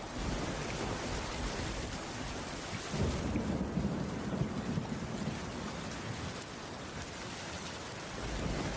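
Steady rain falling, with a low rumble swelling about three seconds in and fading out over the next few seconds.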